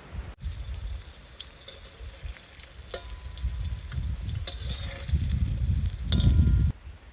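Food frying in a pan while being stirred: a steady sizzle with a few sharp clicks. It gets louder near the end and cuts off abruptly.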